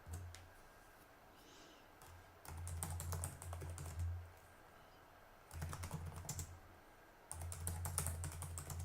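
Typing on a computer keyboard: three runs of rapid keystrokes, starting about two and a half seconds in, around six seconds, and again near the end, with short pauses between.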